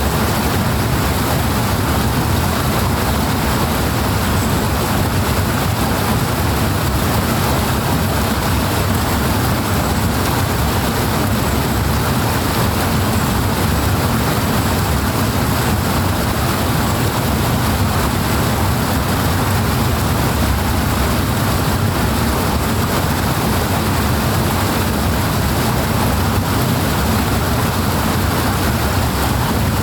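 Powerful flowing water rushing at a steady, unchanging level.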